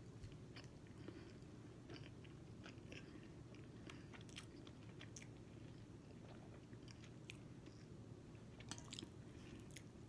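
Faint chewing of food, with scattered soft clicks and smacks of the mouth.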